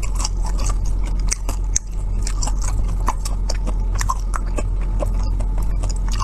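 Close-up chewing and biting of air-fried pork large intestine: dense, irregular crisp, wet clicks from the mouth, over a steady low hum.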